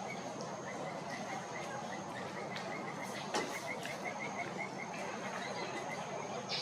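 Outdoor insect ambience: a steady high-pitched insect hum with a run of short chirps at about four a second through the first half or more. A few sharp taps come just after the middle.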